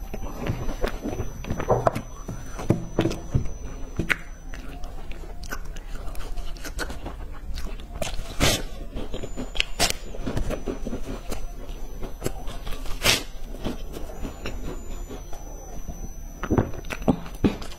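Close-up crunching and chewing of crisp, crumb-coated chocolate sticks: irregular sharp crackles of bites and chewing.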